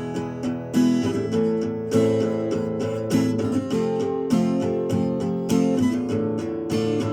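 Acoustic guitar strummed in a steady rhythm, a chord struck roughly once a second and left ringing: an instrumental passage between sung refrains.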